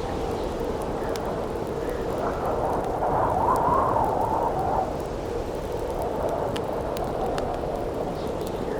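Howling wind blowing steadily, swelling into a louder gust about three seconds in and easing off around five seconds, over the sharp scattered crackles and pops of a wood campfire.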